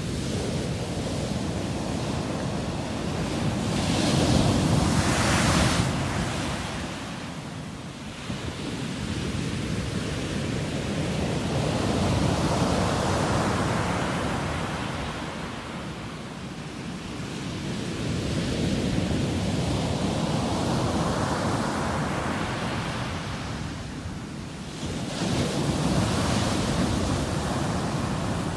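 Sea waves breaking on a shore, the surf swelling and ebbing four times in slow succession, each surge rising to a rush of water and then fading.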